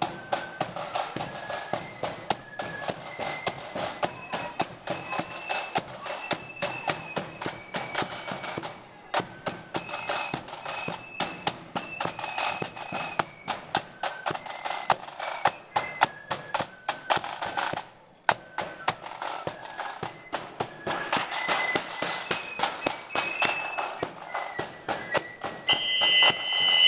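Marching flute band playing a tune: a high flute melody over steady snare and bass drum beats. A whistle blast sounds near the end.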